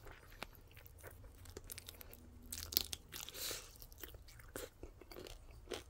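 Faint chewing and crunching of a crispy fried chicken wing coated in barbecue sauce: irregular small crunches and mouth sounds, a little louder about halfway through.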